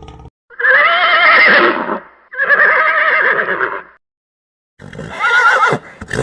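Horse whinnying three times, each call a loud quavering neigh of one to one and a half seconds, with brief silences between them.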